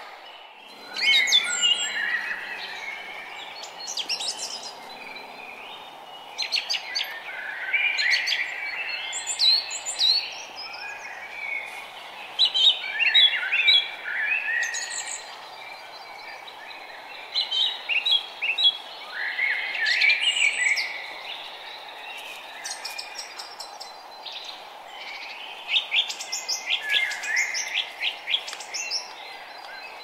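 Songbirds singing in short bursts of quick chirps and trills every few seconds, with pauses between, over a steady faint background hiss.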